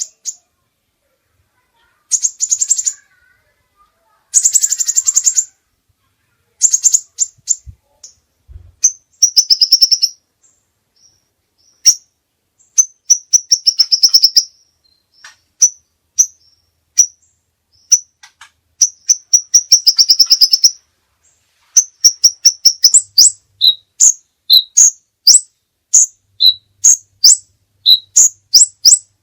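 A songbird singing loudly: bursts of rapid, high trills and twitters, then, a little past two-thirds of the way through, a run of sharp, repeated chip notes at roughly two a second.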